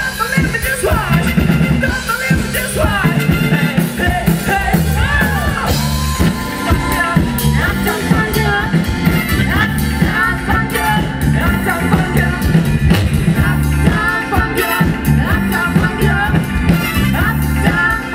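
Live rock cover band playing, with drums and bass keeping a steady beat and a voice singing over it.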